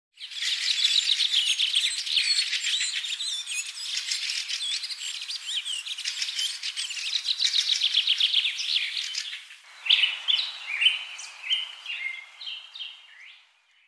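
Songbirds chirping: a dense run of rapid, high chirps. About two-thirds of the way in it gives way to separate chirped notes, several gliding down in pitch.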